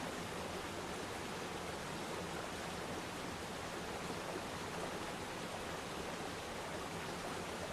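Waterfall: water falling and splashing into a pool, a steady, even rush with no breaks.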